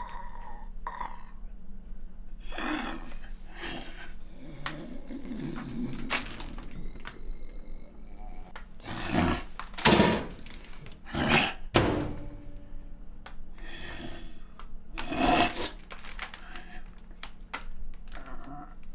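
A man's zombie-style groans and grunts, in irregular rough outbursts, the loudest about halfway through and again about three-quarters of the way in, over a steady low hum.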